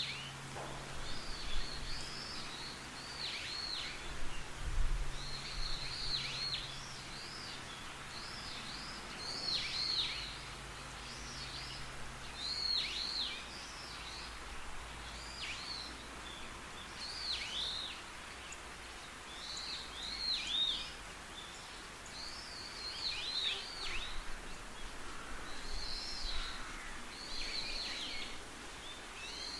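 A songbird singing, repeating short phrases of quick up-and-down sweeping notes every two to three seconds, over quiet woodland background. A faint steady low hum sits underneath during the first half, then fades out.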